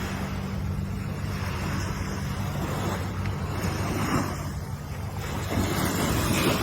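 Ocean surf washing ashore, a steady wash of water noise that swells about four seconds in and again near the end, over a constant low rumble.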